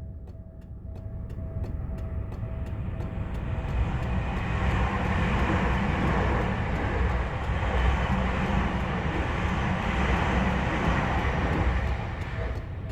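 Level-crossing warning bell ringing in a steady repeating pattern as a Tokyu Toyoko Line train passes; the train's rumble swells about four seconds in, drowns out the bell, and falls away near the end, leaving the bell ringing on.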